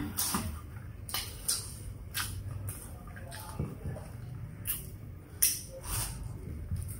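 Close-up chewing of fried chicken: irregular wet mouth clicks and smacks, about a dozen, the sharpest about five and a half seconds in.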